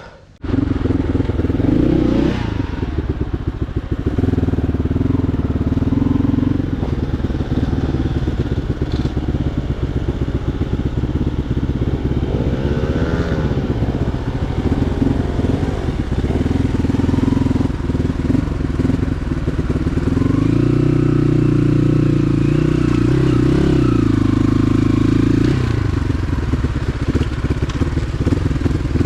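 Motorcycle engine running, coming in abruptly about half a second in, its revs rising and falling several times, with a longer higher-revving stretch past the middle.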